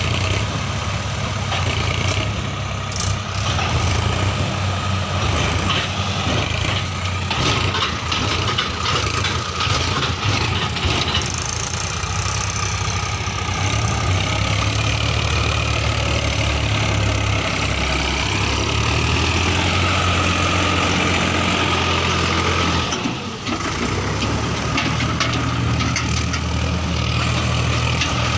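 Heavy diesel engines running steadily, with a scatter of knocks and rattles in the first half and a brief dip in the engine sound about three-quarters of the way through.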